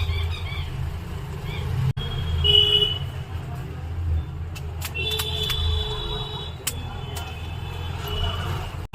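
Road traffic rumbling steadily, with vehicle horns honking briefly about two and a half seconds in and again around the middle and near the end.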